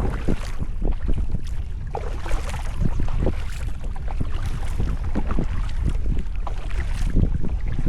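Wind buffeting the microphone of a kayak-mounted camera, a steady low rumble, with short irregular splashes and drips of water from a kayak paddle.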